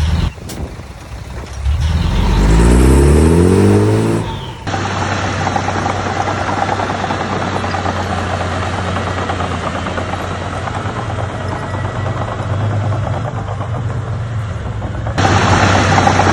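Heavy diesel engine of earthmoving machinery revving up, its pitch rising, about two seconds in. After an abrupt change it runs with a steady drone, and near the end there is a sudden step louder.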